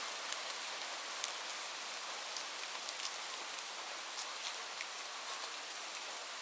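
Steady rain falling, a continuous hiss with frequent distinct drops ticking on a surface.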